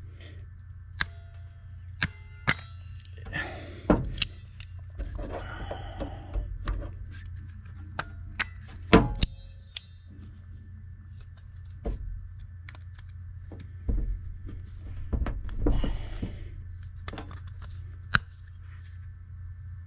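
Vice grips working on a rusted steel hose clamp: irregular sharp metal clicks, clinks and short scrapes as the jaws grip and slip on the clamp, which is too rusted to turn. A steady low hum runs underneath.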